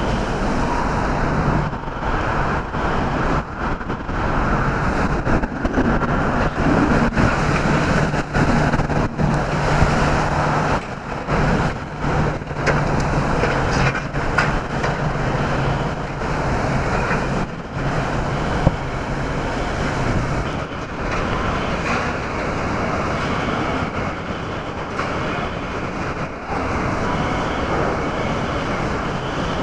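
Category 4 hurricane winds and wind-driven rain blowing loudly and without letup in whiteout conditions. A low steady hum runs underneath from about five to sixteen seconds in.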